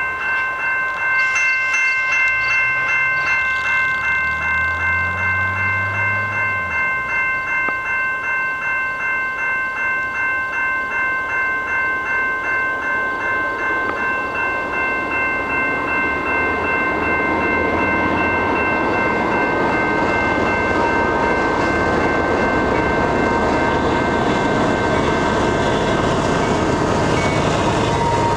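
Passing CP freight train led by two locomotives, with a bell ringing about twice a second throughout. From a little past halfway, the rumble and clatter of the train going by grows and takes over.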